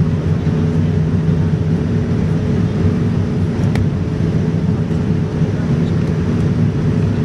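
Steady drone of a Boeing 787-9's Rolls-Royce Trent 1000 engines and rushing air, heard from inside the cabin, with a few low hums held at fixed pitch.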